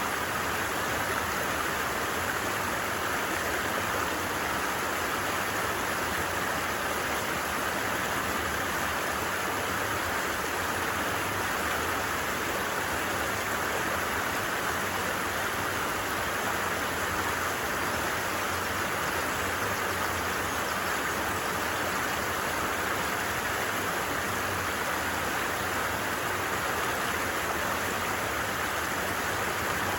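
A stream flowing steadily, an even rushing of water with no change.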